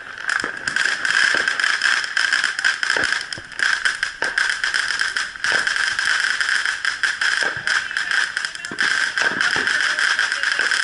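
Fireworks crackling: a dense, unbroken run of sharp little pops over a steady hiss, with a few louder cracks standing out.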